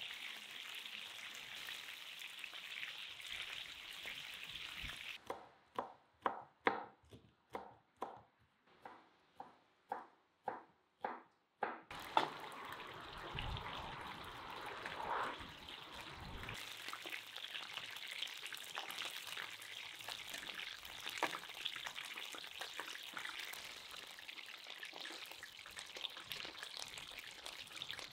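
Chicken pieces sizzling as they fry in hot oil in a pan. About five seconds in the sizzle drops out and about a dozen sharp clicks come, roughly two a second; after that the sizzling resumes, with occasional small clicks of metal tongs lifting the chicken out.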